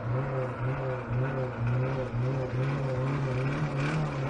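Honda car engine running flat out with no oil or coolant, its note wavering up and down as it labours. It is dying from oil starvation and sounds bad.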